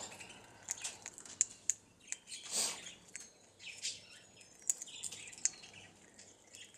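King parrot cracking sunflower seeds in its beak: scattered sharp little clicks and crunches, with faint bird chirps.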